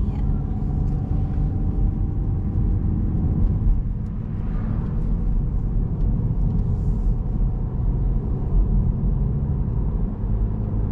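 Car road noise heard from inside the cabin while driving: a steady low rumble of tyres and engine, with a faint steady tone that fades out about four seconds in.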